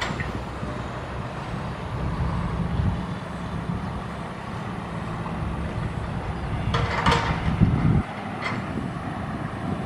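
Diesel engine of a SANY SY135F excavator working steadily at a constant pitch, with a brief clatter about seven seconds in; the low rumble drops off suddenly just after eight seconds.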